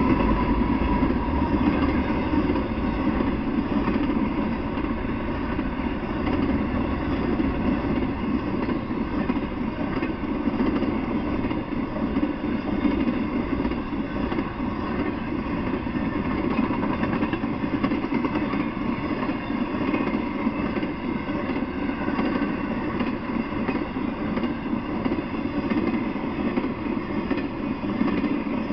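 Intermodal freight train rolling past, its flatcars carrying truck trailers, with a steady noise of wheels running on the rails.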